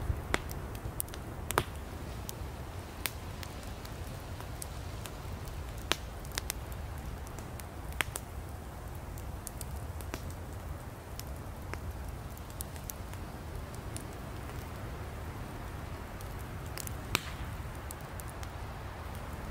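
Wood campfire burning, a steady low rush of flames with sharp crackles and pops of firewood at irregular intervals, a few of them louder.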